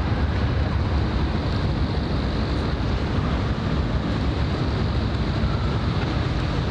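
Wind buffeting the microphone: a steady low rumble with an even hiss, over open-water harbour ambience.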